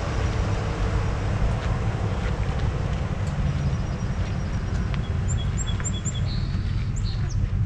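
Steady low outdoor rumble, with a bird singing a quick series of high chirps from about five seconds in.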